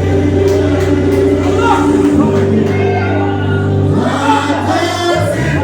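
A gospel vocal group singing together over sustained accompaniment chords with a steady low bass.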